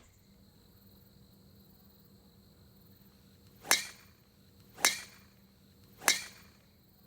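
Golf club swung quickly through the air three times, about a second apart: each is a short whoosh that swells and ends sharply.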